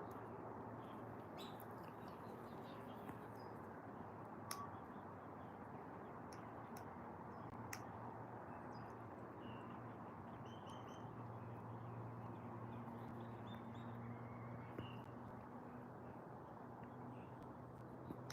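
Quiet outdoor background with a steady low hiss and faint hum. Faint, short bird calls sound now and then in the distance.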